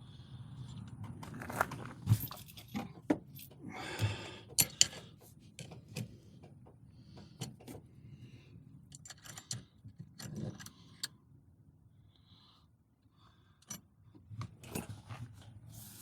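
Irregular sharp clicks, light metallic rattles and scrapes of hands handling small metal parts. Busier in the first half, with a quieter lull of a few seconds near the end before the clicking resumes.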